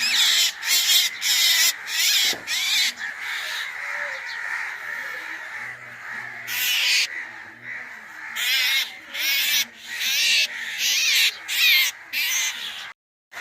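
Crows cawing: harsh calls repeated in quick succession, with a short break in the sound near the end.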